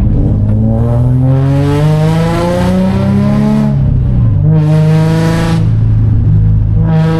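Infiniti G35's V6 exhaust, run catless through test pipes, pulling hard under acceleration: the note rises for about three seconds, drops at a gear change around four seconds in, holds steady, then starts to climb again near the end. The exhaust is loud and raspy.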